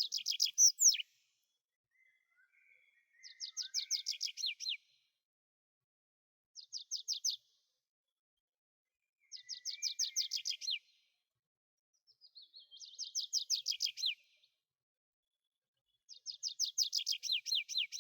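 Tree pipit singing: six short phrases, each a fast run of repeated high notes, with pauses of a second or two between them.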